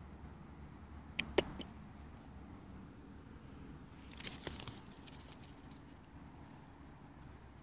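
A few sharp clicks about a second in, then a quicker cluster of light taps around four seconds in, over a faint low hum.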